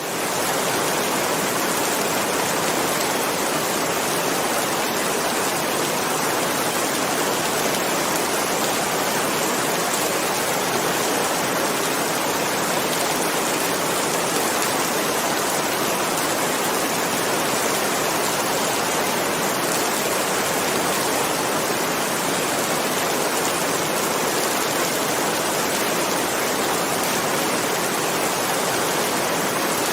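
Heavy rain falling steadily, a constant dense hiss. It fades in at the very start.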